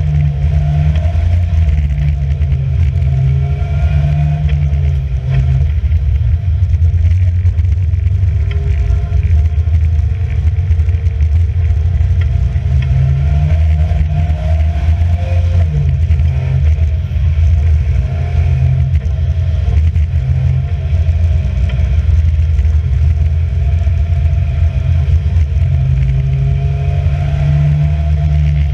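Racing car engine driven hard through a lap, its pitch climbing and dropping again and again with throttle and gear changes.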